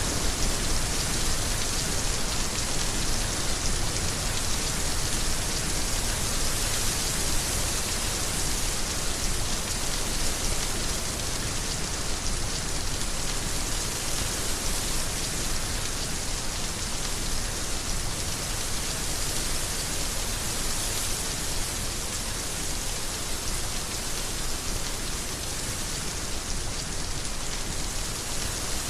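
Heavy rain falling steadily, a dense even hiss of drops on surfaces with no break or change.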